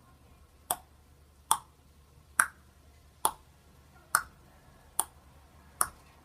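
A sharp click repeated at an even pace, a little more than once a second, seven times.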